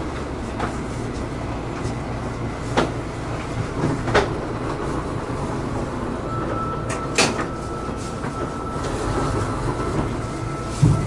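Inside an 800-series Shinkansen car as the train rolls slowly along the platform and comes to a stop: a steady low rumble with three sharp clicks. A steady high tone starts a little past halfway, and there is a low thump just before the end.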